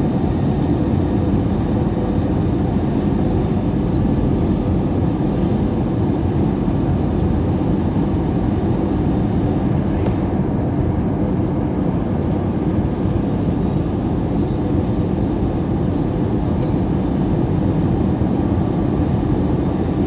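Airbus A321-200 airliner noise: a steady rumble and hiss of engines and airflow, with a faint constant hum, unchanging throughout.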